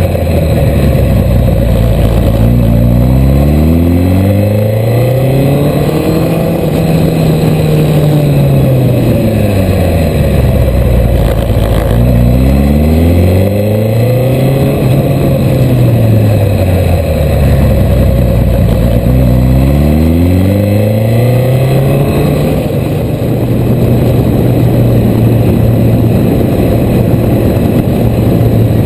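Suzuki Hayabusa inline-four motorcycle engine under way. Its pitch rises as it accelerates and falls as it slows, three times over, then holds steady near the end, with wind rush throughout.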